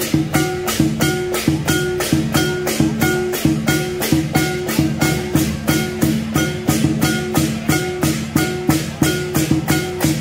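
Lion dance percussion music: drum and cymbals beating a fast, even rhythm of about four strokes a second, over a few ringing pitched notes.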